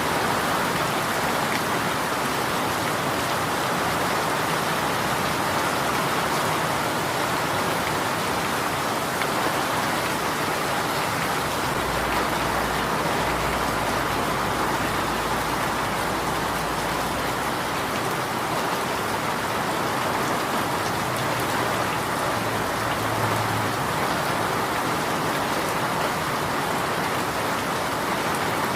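Steady rain falling and pattering on surfaces, an even hiss that does not change. About halfway through, a faint low rumble comes in for several seconds and fades.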